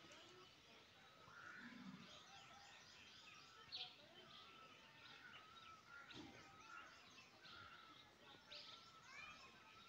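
Faint birdsong: many short chirps and twittering calls from small birds, scattered throughout.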